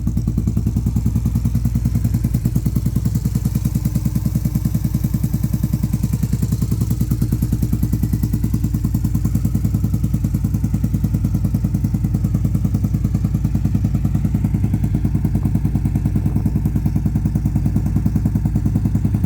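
Indian Scout V-twin engine idling steadily, with an even, fast pulsing beat and no revving.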